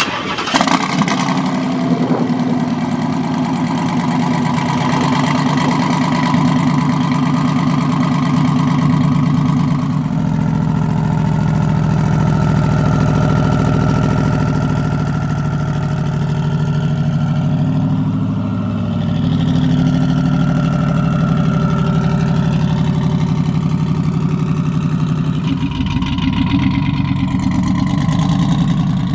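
Twin-turbo Dodge Demon's supercharged-turned-turbo Hemi V8 idling, a deep, steady engine note that shifts slightly in pitch a few times.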